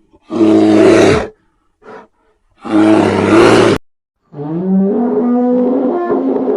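A big cat roaring twice, each roar about a second long. Then a different, longer pitched animal call with a wavering tone begins about four seconds in.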